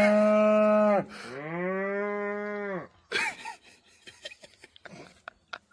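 An animal calling twice in long, steady, moo-like calls, the second a little quieter, followed by a few faint clicks and knocks.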